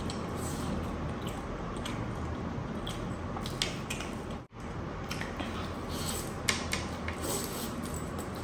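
Open-mouthed chewing of rice and chicken eaten by hand, with wet squelching and sharp mouth clicks, over a steady background hiss. The sound drops out briefly about halfway.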